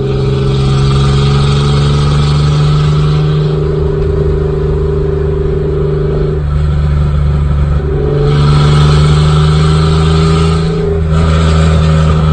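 Nissan truck's engine and loud exhaust pulling hard under acceleration, heard from inside the cab with the window down. The note dips briefly twice, about halfway through and near the end, then picks up again.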